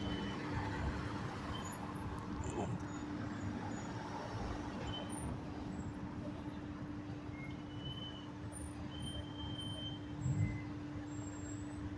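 A motor vehicle running steadily, with a constant low drone over a rushing noise.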